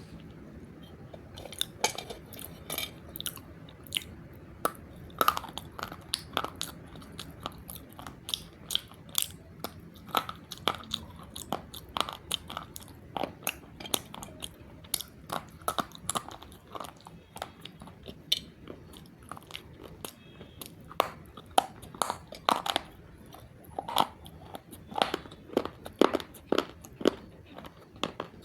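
Close-up crunching and chewing of roasted multani mitti (Fuller's earth clay), with dense, irregular crackles several times a second.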